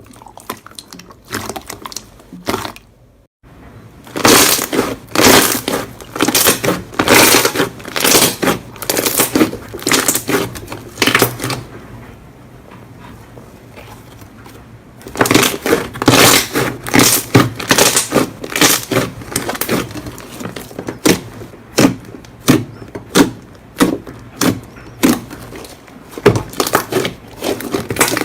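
Slime being squeezed and worked by hand, giving dense runs of quick clicks and pops. Two long busy stretches are separated by a quieter pause, and only sparse single pops come near the end.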